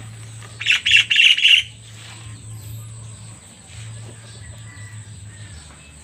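A bird chirping: a quick run of about five sharp calls lasting about a second, near the start, over a faint low hum.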